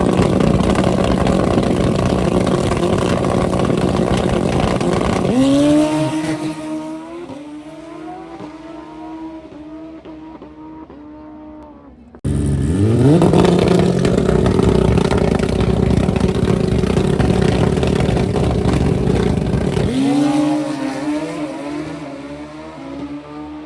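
Turbocharged drag-racing motorcycle engines, two runs. Each starts with a quick rise in revs and holds a loud, steady high-rev note for about five seconds, then fades off with a string of quick upshifts. An abrupt cut about 12 seconds in starts the second run.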